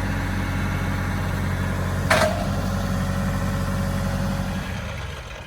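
An engine running steadily at idle, with a short sharp high-pitched sound about two seconds in; the engine dies away near the end.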